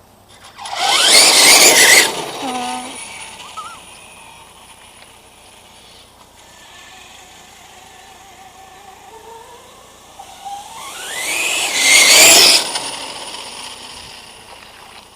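Brushless electric motor of a Redcat MT RC monster truck whining as the truck speeds past twice, about a second in and again near the end, the whine rising in pitch as it accelerates. In between, a fainter whine from the truck running farther off.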